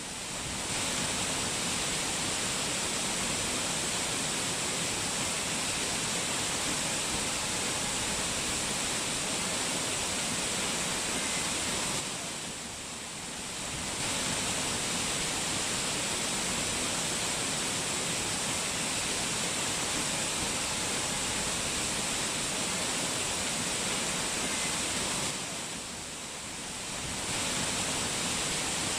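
Water rushing down a mountain waterfall, a steady dense hiss that dips briefly twice.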